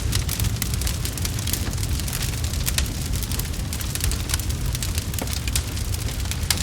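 Wood fire crackling and popping, with many sharp snaps over a steady low rumble of flames.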